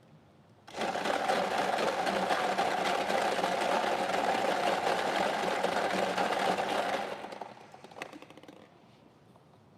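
A prize-draw machine running after its button is pressed: a loud, fast, dense clatter that starts about a second in, holds steady for about six seconds and then dies away as the next digit is picked, with a single click near the end.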